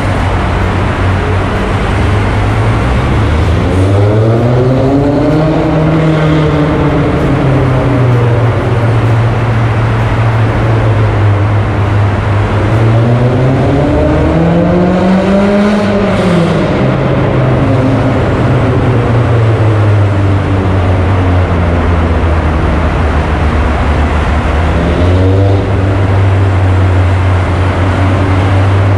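Honda S2000's four-cylinder engine heard from the open-top cabin in a road tunnel: the revs climb twice and fall back, sharply after the second pull, with steady cruising between and a short rise near the end.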